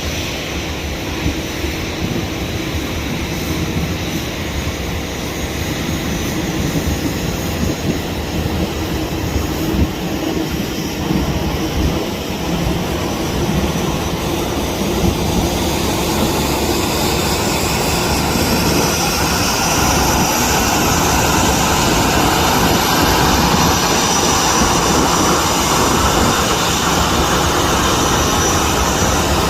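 Airliner engines running, a steady rush that grows louder through the second half, with a thin high whine coming in.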